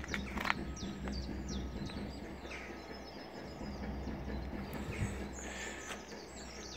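Birds chirping in short, quick, downward-sliding notes over a steady low background rumble, with a couple of faint clicks.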